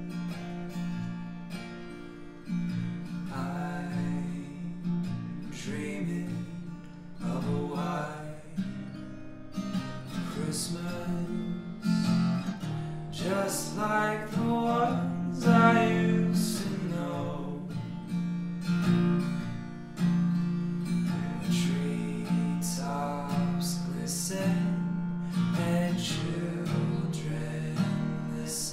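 Music: an acoustic guitar strumming chords, with a melody line above it.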